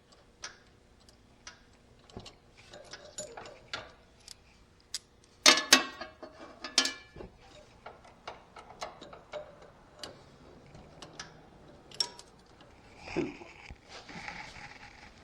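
Scattered clicks and clinks of hand tools and metal hardware being worked on a zero-turn mower's lap-bar linkage, with two loud ringing metal clanks about five and a half seconds in and another a second later.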